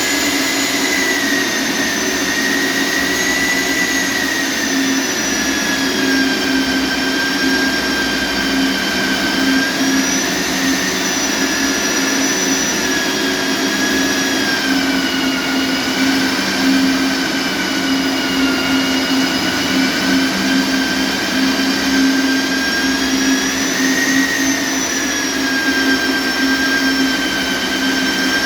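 Electric core drill motor running steadily with a loud whine whose pitch drifts slightly up and down over a steady low hum.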